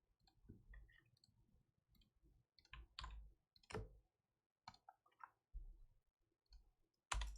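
Faint, irregular clicks and light taps, with a few louder clicks about three seconds in and again near the end.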